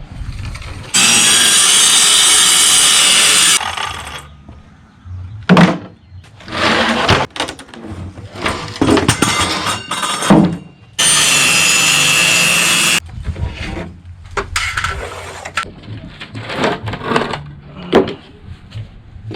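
Power saw cutting wood in two steady runs of two to three seconds each, starting and stopping abruptly. Between them come irregular knocks, scrapes and rubbing, as boards are handled and fitted.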